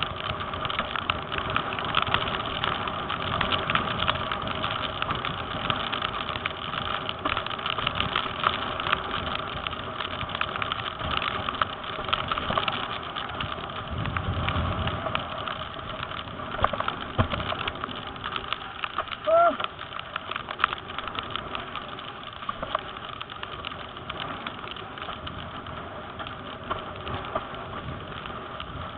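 Wind and water noise on a windsurfing camera out on the water: a steady rush with a buzzing hum and many small taps of spray and chop. A brief squeak about two-thirds of the way through.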